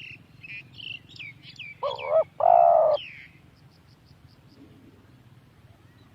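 Spotted dove cooing: two loud, low coos about two seconds in, the second longer, among a run of short, high, falling chirps from small birds.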